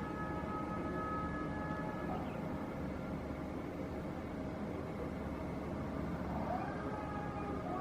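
Airliner engines running with a steady rumble and a high whine made of several held tones; the whine fades about two seconds in and comes back near the end.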